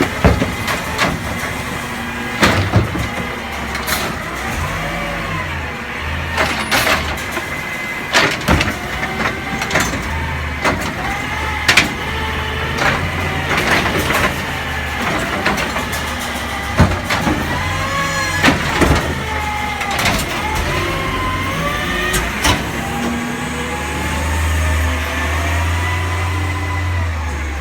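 Garbage truck at work: its engine runs and revs up and down under load, with sharp metallic bangs and clanks scattered throughout.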